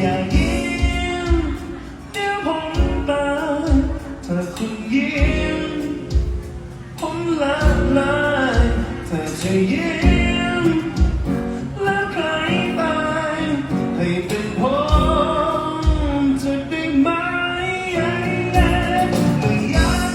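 A Thai folk song with a lead singer and a deep, regular bass beat, played through a PA speaker set with an 18-inch subwoofer and 8-inch mid-high speakers.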